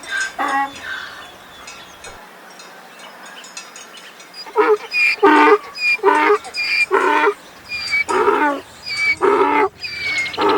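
Donkey braying: after a near-quiet stretch, a loud repeated hee-haw begins about four and a half seconds in, with low calls alternating with short high-pitched ones.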